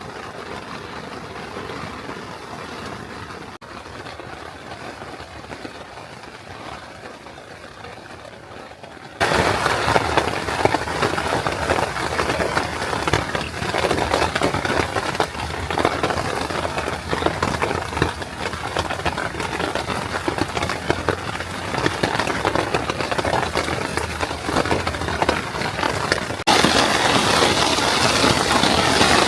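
Rain pattering on a tent, a dense crackle of drops. Moderate at first, it turns abruptly much heavier about nine seconds in and louder again near the end.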